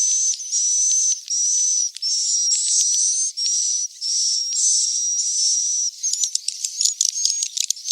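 Swiftlet chicks calling: a run of hissing, buzzy calls about half a second each, each with a thin high whistle in it. About six seconds in, this gives way to a fast chatter of clicks and short chirps. It is a swiftlet call recording of the kind played to draw swiftlets in to roost and nest.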